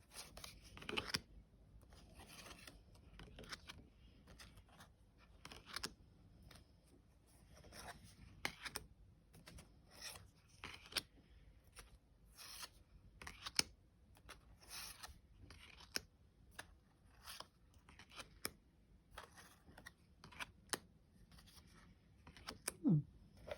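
Quiet, irregular swishes and scrapes of a deck of oracle cards being handled and shuffled, card stock sliding over card, with occasional sharper clicks.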